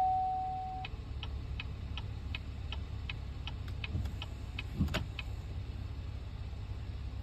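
Cadillac XT5 dashboard warning chimes after the ignition is switched back on. A steady electronic tone fades and stops about a second in, then a run of even ticks follows, about three a second, for roughly four seconds, over a low hum, with a soft knock near the end of the ticking.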